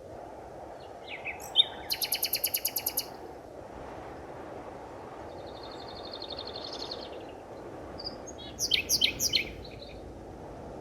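Forest birds calling over a steady low rushing background: a fast run of about a dozen sharp notes about two seconds in, a fainter trill in the middle, and a short burst of loud notes near the end.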